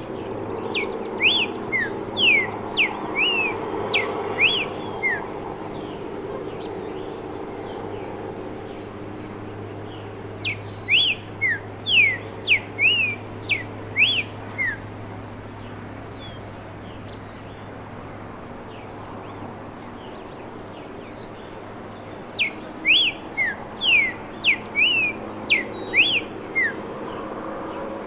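Streaked saltator singing three short phrases of quick, clear whistled notes that slide downward, roughly ten seconds apart, over a steady low background hum.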